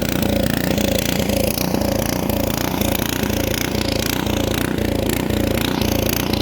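Small gasoline engine of a snowblower running steadily at a constant speed, with an even low pulsing throb.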